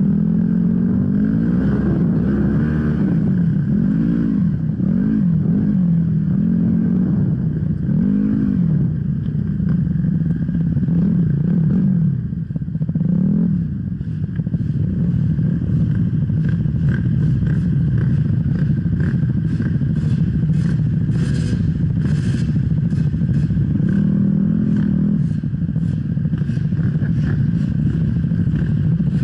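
Off-road enduro motorcycle engine revving up and down repeatedly as the throttle is worked, easing off briefly about halfway through. In the second half it runs more evenly under a stream of sharp rattles and knocks.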